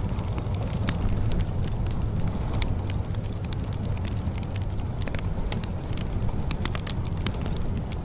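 Layered rain and fireplace ambience: a steady low rumble under many scattered sharp crackles and ticks.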